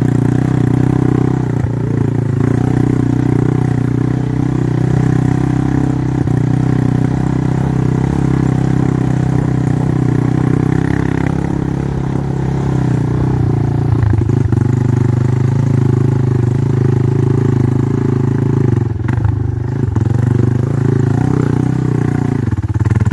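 Motorcycle engine running while riding, loud and mostly steady, with brief changes in revs about fourteen and nineteen seconds in.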